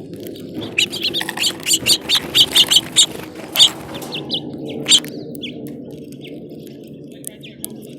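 Small songbirds chirping: a quick run of short, high chirps in the first half, thinning to a few scattered chirps afterwards.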